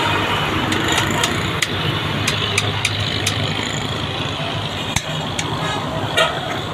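Road traffic: a vehicle engine running steadily, with scattered sharp clicks and knocks and a brief louder burst near the end.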